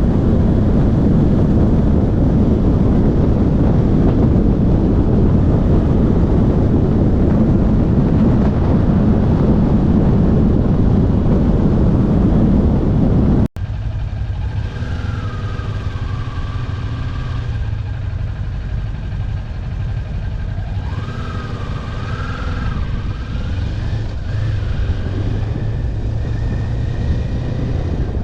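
Motorcycle riding with heavy wind noise on the microphone covering the engine. After a sudden cut about halfway through, the motorcycle engine is heard more plainly, its pitch rising and falling a few times with the throttle.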